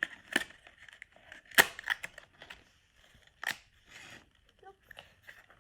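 Plastic toy pieces being handled: a few sharp clicks and knocks with light rustling, the loudest about a second and a half in.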